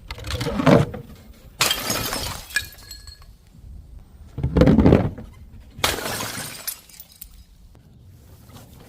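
Glass bottles smashing, four separate crashes one to three seconds apart, the second followed by a brief tinkle of ringing shards.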